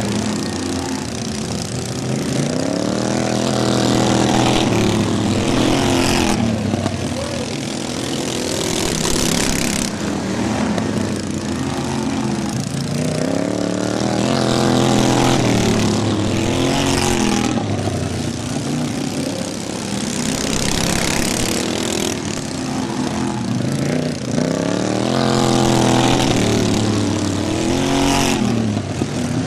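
Several racing lawn mower engines running hard at once, their pitch rising and falling over and over. The sound swells and fades about every five or six seconds.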